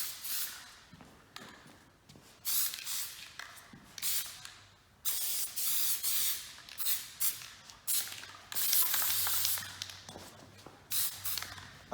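Spray adhesive hissing out in repeated short bursts, some brief and some a second or more long, as adhesive is sprayed onto a sheet of vehicle insulation.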